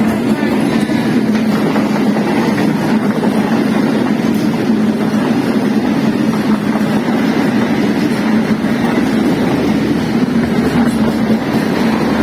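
Train running: a steady, loud rumble of noise with a constant low hum.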